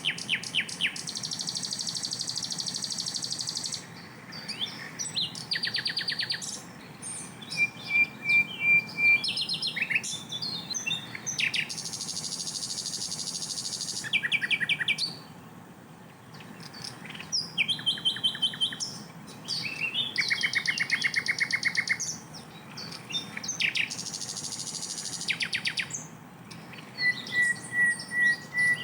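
Sikatan londo flycatcher singing loud, varied phrases: long high buzzy trills alternate with fast rattling series of notes and short chips, one phrase after another with only brief gaps.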